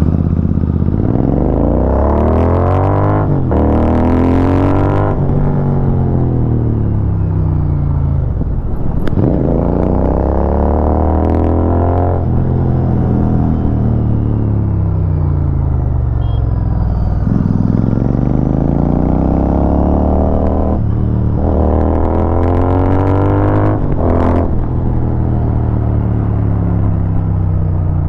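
Royal Enfield Continental GT 650's parallel-twin engine through aftermarket Barrel Exhaust Atoms silencers under way. It revs up in rising pulls through the gears, the pitch dropping at each shift, then falls away in long glides as the rider rolls off between pulls. There is a brief rush of wind noise a few seconds in and again near the end.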